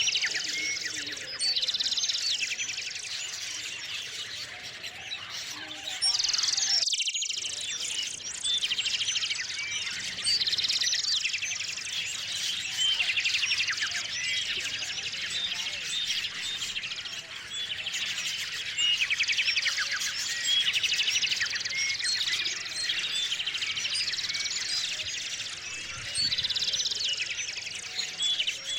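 Many small songbirds chirping and trilling at once, in a busy, overlapping chorus of short high calls.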